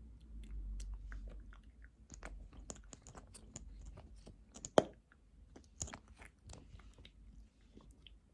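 Wet mouth sounds close to the microphone: a scattered run of lip smacks and tongue clicks, with one louder pop about five seconds in.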